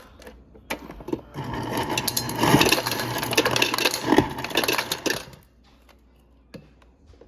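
Refrigerator door dispenser running into a cup for about four seconds, starting a little over a second in: a steady motor hum with a dense rattle, then it stops.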